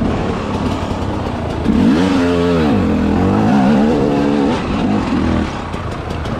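Enduro motorcycle engine revving. About two seconds in its pitch swings sharply up and back down, then it holds a higher, uneven note for a couple of seconds before dropping back near the end.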